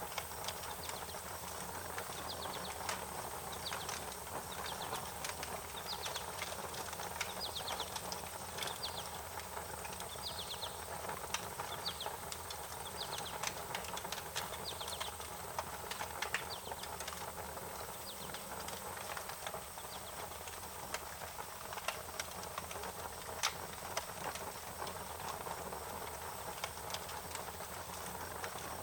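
Wood fire crackling, with scattered sharp pops and snaps over a steady hiss. Short high bird chirps come and go through the first half.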